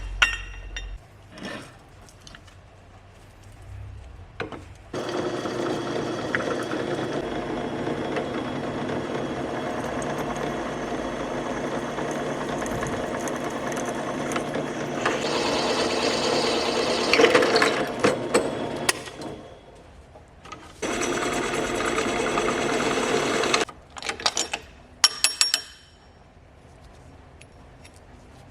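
A small power tool's motor runs steadily for about fifteen seconds, stops, then runs again for a couple of seconds, with a few clicks and knocks in between.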